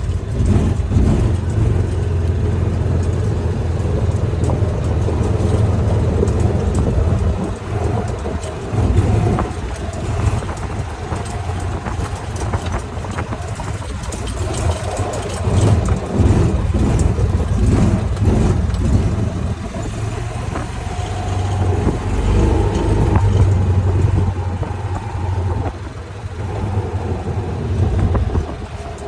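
Vehicle engine running steadily as it is driven slowly, with a constant low hum that swells and eases a little.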